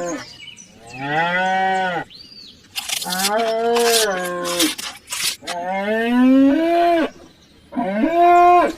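Cow mooing four times, each moo a drawn-out call of about a second, with a few short hissy bursts in between.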